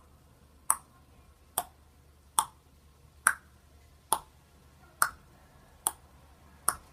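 A sharp click repeating at an even pace, a little more than once a second, about eight times, over a faint low hum.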